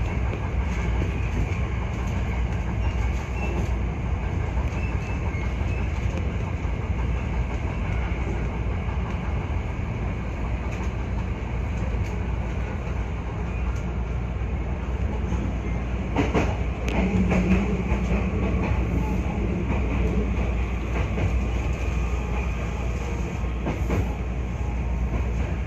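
Hankyu 1300 series electric train running on the rails with a steady clickety-clack, slowing as it pulls into a station. About two-thirds of the way through come a few sharp clicks and a short low hum as the train comes to its stop.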